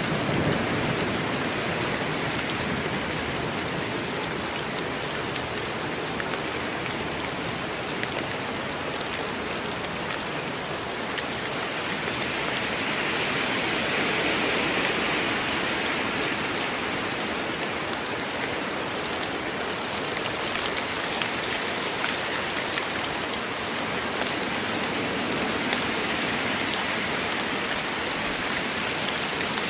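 Steady heavy rain falling in woodland, a dense even hiss with many individual drops ticking, swelling a little in intensity a few times.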